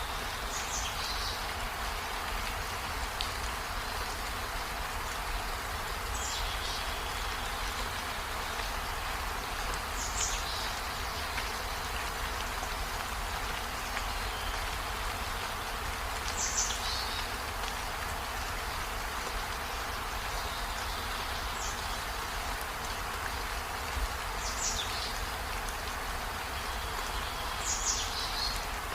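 Steady rain falling. Short high chirps come through it every few seconds.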